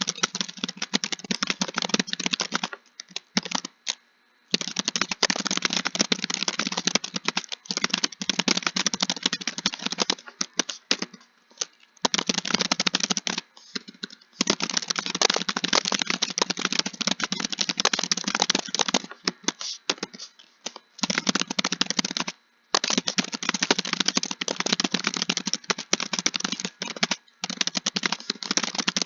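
Fast, continuous typing on a computer keyboard: runs of rapid key clicks broken by brief pauses every few seconds.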